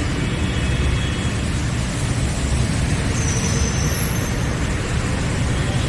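Kochi Metro train running: a steady rumble of wheels on rails, with a faint high whine about three seconds in.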